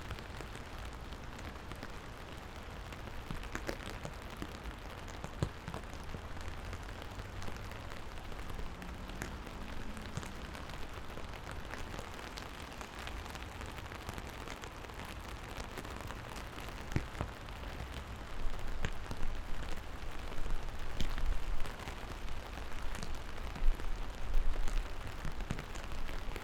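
Steady rain falling, with scattered sharper drops tapping close by, over a low rumble that comes in surges during the last third.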